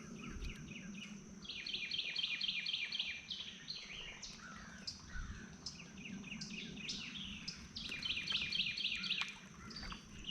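A songbird singing rapid trills of short falling chirps, several times with pauses between, over a steady high tone.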